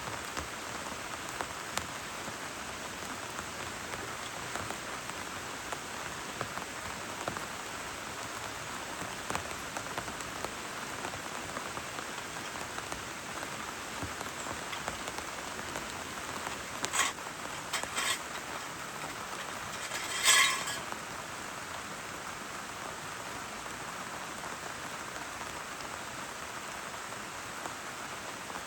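Steady rain falling, an even hiss of drops. About two-thirds of the way through come a few sharp knocks, then a brief louder rattle.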